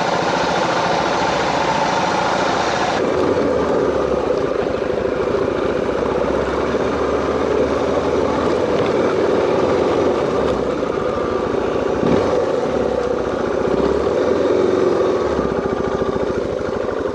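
Suzuki DR650's single-cylinder engine running steadily while riding, with a continuous rush of noise. The hissy upper part of the sound drops away abruptly about three seconds in.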